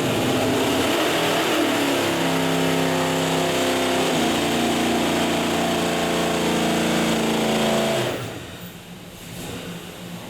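454 cubic inch RHS big-block V8 making a wide-open-throttle dyno pull, its pitch rising steadily for about eight seconds. Near the end the throttle closes and the engine note drops away sharply to a much quieter run-down.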